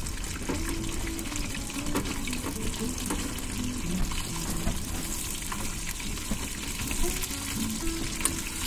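Oat cakes deep-frying in hot fat in a wok, a steady sizzle, over background music.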